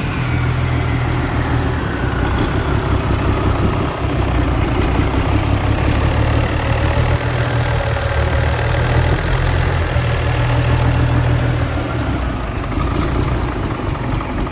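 MAN D2866 straight-six diesel engine running steadily, with a whistle that falls in pitch over the first few seconds.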